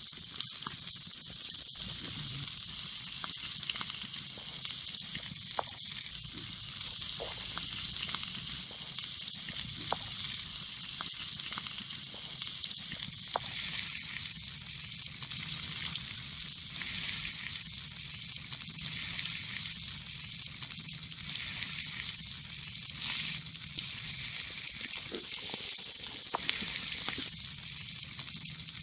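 Lamb kokoreç sizzling steadily on a hot tin sheet over a campfire, with scattered short pops and crackles.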